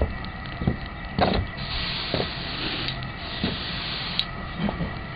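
A few short knocks, then an aerosol can of hairspray spraying in one long hiss lasting about two seconds.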